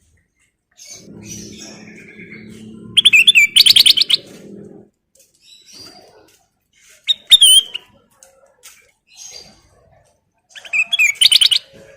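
Kutilang emas, a bulbul, singing three short, loud, rapid whistled phrases about four seconds apart, with faint chips between them. A low steady hum runs under the first phrase.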